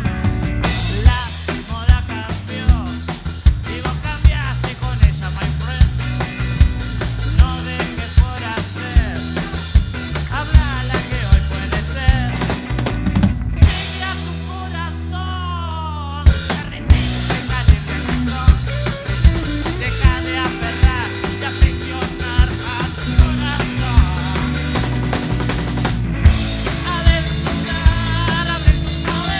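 Rock band playing an instrumental passage, led by a drum kit with steady bass drum and snare hits. About halfway through the drums drop out for a couple of seconds, leaving a held low note and gliding, bending notes, then the full band comes back in.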